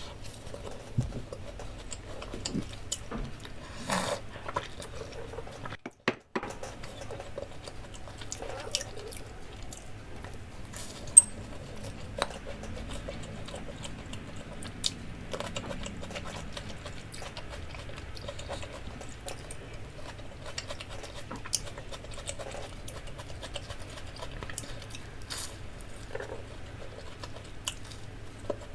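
Close-miked eating sounds: chewing, with scattered small clicks and taps and one sharper click about eleven seconds in. The sound drops out briefly about six seconds in.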